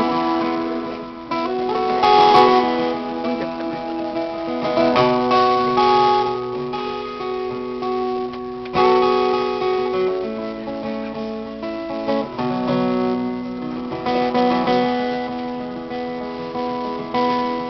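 Guitar strumming chords, with the chord changing every few seconds: the instrumental opening of a live song before the singing begins.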